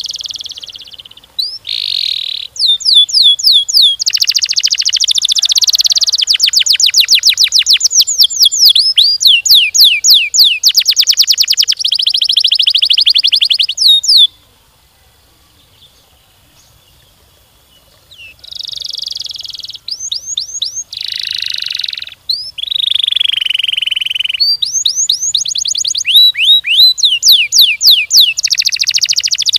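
Domestic canary singing long rolling trills of rapidly repeated sweeping notes mixed with buzzy phrases. The song breaks off about halfway through for some four seconds, then starts again.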